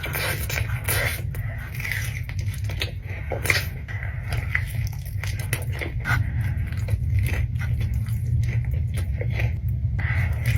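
Close-miked eating and food handling: irregular crunching, scraping and clicking noises over a steady low hum.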